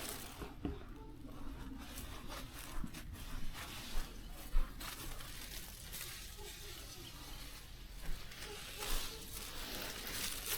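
Rustling and crinkling with scattered light snaps and ticks, of plants or grass being handled and torn.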